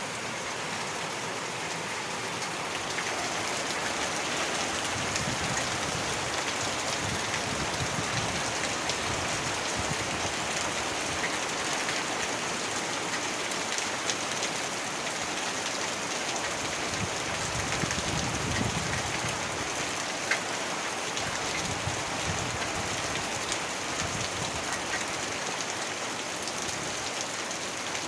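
Heavy rain falling steadily, a dense hiss of drops with scattered sharp hits. A low rumble swells and fades twice beneath it.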